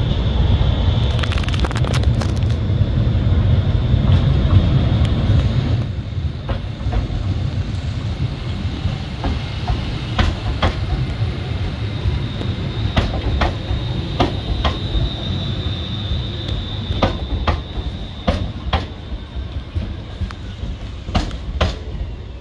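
ScotRail Class 380 electric multiple unit running past on the platform line. A low rumble is loudest for the first six seconds, then quieter, with irregular sharp clicks of its wheels over the track and a thin steady high whine.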